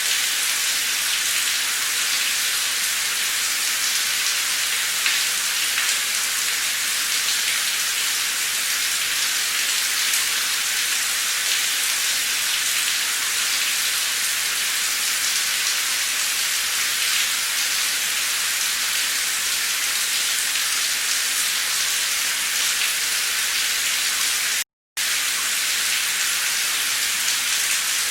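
Heavy, torrential rain pouring steadily in a dense, even hiss. The sound cuts out completely for a split second near the end.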